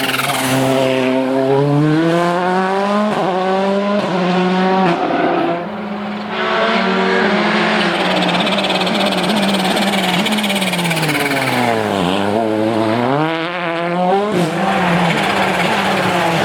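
Volkswagen Polo R WRC rally car's 1.6-litre turbocharged four-cylinder engine at full throttle. Its pitch climbs and drops sharply with each quick gear change. About five and a half seconds in the engine briefly goes quieter, and near twelve seconds the revs fall low before it pulls hard again.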